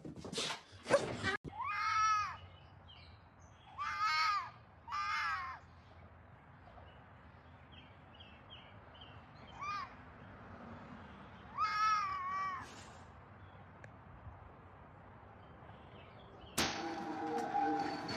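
Cat meowing: about six separate meows, each rising then falling in pitch, spaced unevenly with pauses between them. A few short clattering noises come just before the first meow, and near the end a different, denser sound cuts in suddenly.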